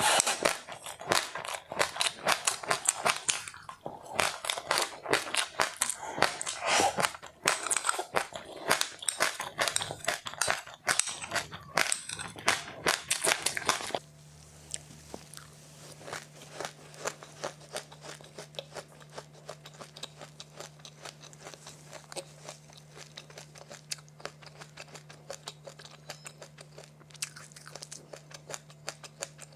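Close-up crunchy chewing and biting of a crisp seed and rice snack, loud and dense. About halfway through it cuts abruptly to quieter, softer chewing over a steady low hum.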